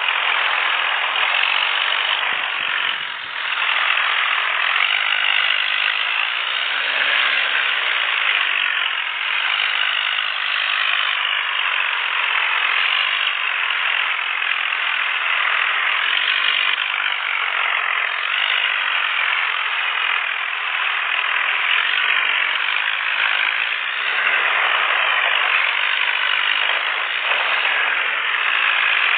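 Tractor diesel engines running steadily and loudly, with a brief dip about three seconds in.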